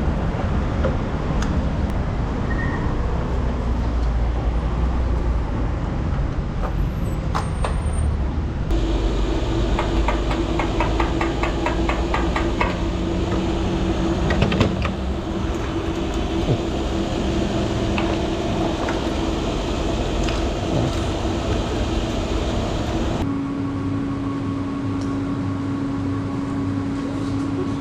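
Honda Shadow VT750 V-twin engine running while riding in city traffic, with wind noise on the helmet-mounted microphone. The overall sound changes abruptly about nine seconds in and again near the end.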